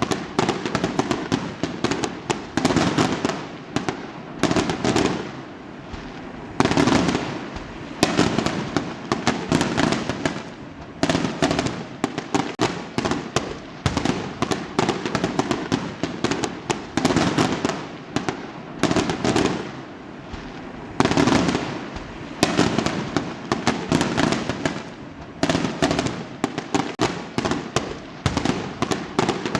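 Fireworks going off continuously: a dense stream of sharp crackles and pops with heavier booming bursts every second or two.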